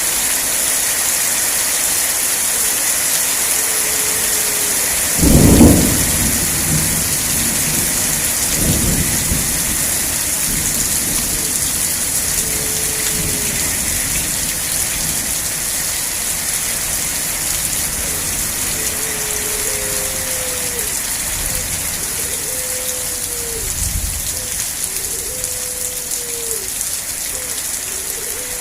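Steady heavy rain in a thunderstorm, with a loud thunderclap about five seconds in and softer rumbles of thunder later. A short, low, arched call repeats now and then, and about every second and a half near the end.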